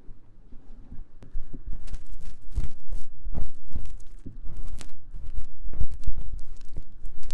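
Ear-cleaning tool scratching fast and hard inside the silicone ear of a 3Dio binaural microphone. It gives a dense run of irregular rough scrapes and rubs with close, heavy thuds, starting about a second in.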